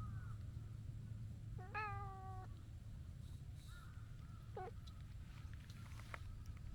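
A cat meows: one clear meow just under a second long about two seconds in, and a shorter call about four and a half seconds in, over a low steady hum.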